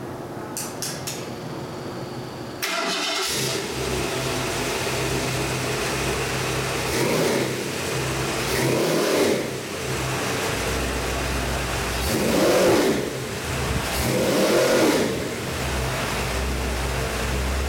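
Ford 351 Windsor small-block V8 crate engine started up, catching about two and a half seconds in and settling into a steady idle. It is revved in four short throttle blips partway through.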